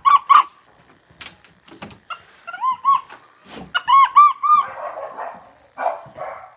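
Capuchin monkeys calling: two runs of short, arched chirps, first two or three and then four in quick succession, with knocks and a rougher, noisier call near the end.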